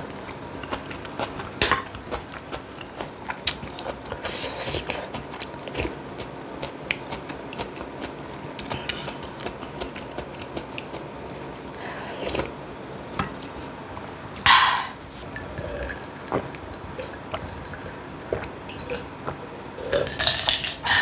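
Close-miked eating: a person chewing, with scattered small clicks and taps of cutlery against dishes and a few louder short clatters.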